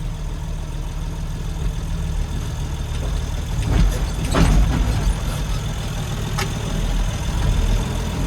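Tractor diesel engine running steadily, with a short clatter of knocks about halfway through and one more sharp knock a couple of seconds later.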